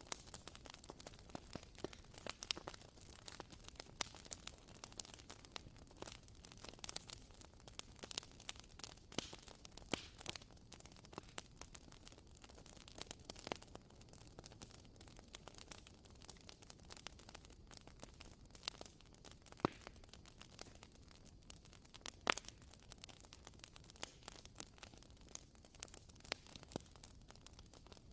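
Wooden-wick candle crackling: irregular faint pops and ticks, several a second, over a steady low hiss.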